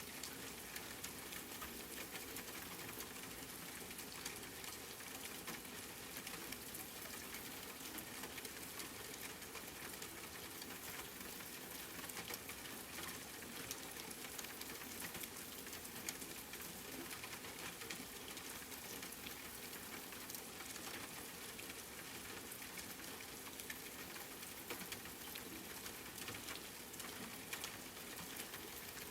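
Steady rain, with many individual drops heard as fine ticks throughout.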